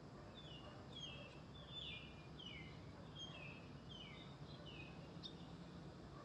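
Faint bird calls: a string of short falling chirps, mostly in pairs, repeating about one to two times a second from about half a second in until near the end, over a steady low hum.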